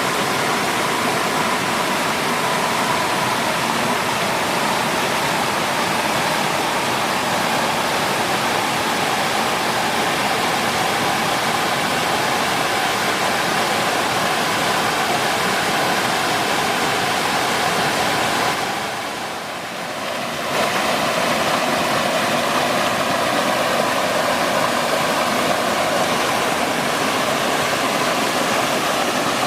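Waterfall and stream water rushing in a loud, steady roar, with a brief dip in level about two-thirds of the way through.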